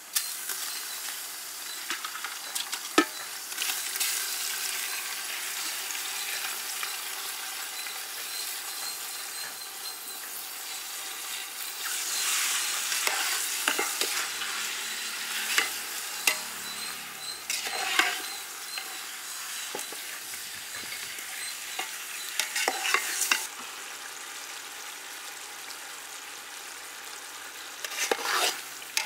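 Mutton pieces frying in hot oil, sizzling steadily while a spoon stirs and now and then scrapes or clinks against the pot. The sizzle grows louder for a while in the middle and is quieter near the end, as the meat is sautéed until the oil separates.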